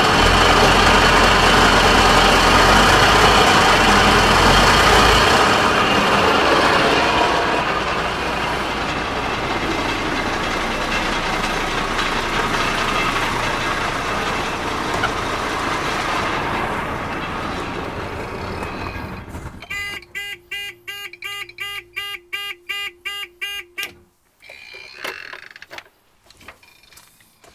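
Godiva fire pump on a Dennis Sabre fire engine, driven through the PTO, running dry with a harsh, bad-sounding noise that dies away after about 16 seconds, which the owner puts down either to it having been dry so long or to the pump being worn out. Near the end, a rapid electronic beeping, about three beeps a second, for a few seconds.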